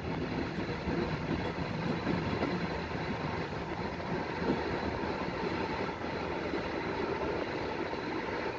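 Passenger train moving slowly, heard from inside a sleeping car: a steady rolling rumble of wheels on rails.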